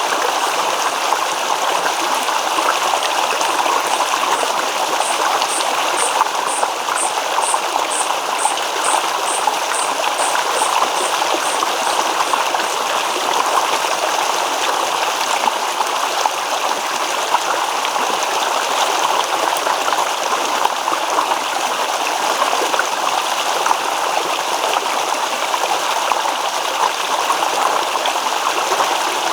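Babbling stream: a steady rush and trickle of running water. A faint high pulsing call, about two pulses a second, sounds over it for several seconds early in the stretch.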